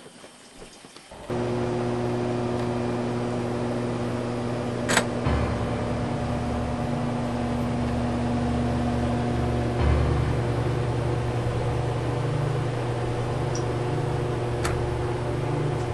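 A steady mechanical hum that switches on suddenly about a second in and holds level, with a sharp click about five seconds in and another near the end.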